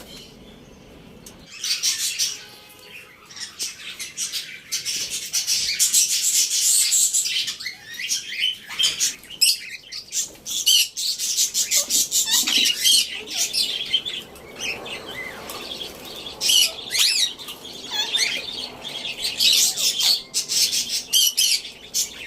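Common myna chattering, whistling and squawking in a long, varied run of calls with quick pitch glides, starting about a second and a half in.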